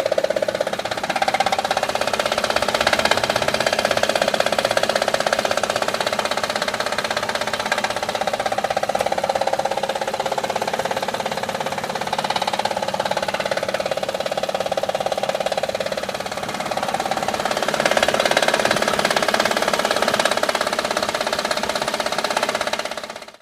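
Honda Odyssey engine running with a lot of noise: a steady, rapid rattling clatter from a failing belt tensioner.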